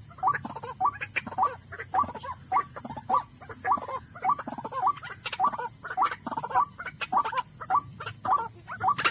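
White-breasted waterhen calls: a rapid, rhythmic series of short notes repeated about three times a second without a break. A steady high insect buzz runs underneath.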